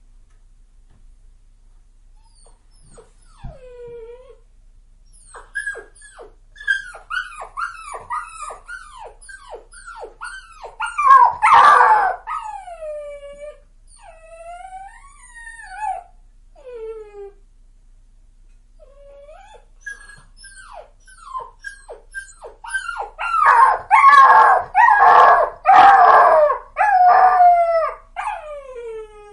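Dogs howling and yipping in many short, high, downward-gliding cries, in two bouts with a brief pause between them. The second bout is the louder one.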